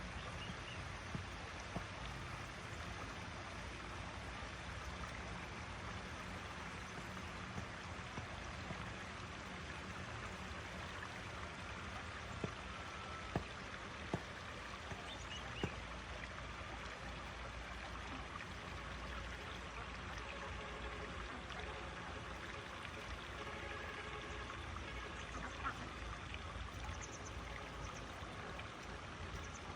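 A small waterfall's water falling and splashing in a steady rush, with a few short ticks now and then.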